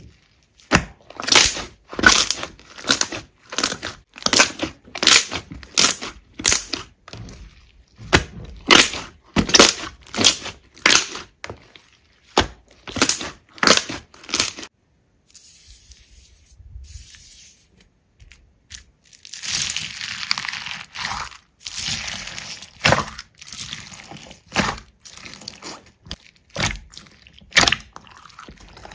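Slime being squeezed and pressed by hand, giving sharp crackling snaps about twice a second. After a quieter pause about halfway through, a denser crackle with a hiss follows.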